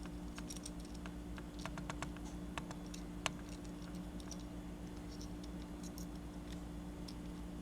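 Scattered light clicks and taps of small diecast toy parts being handled, over a steady low electrical hum.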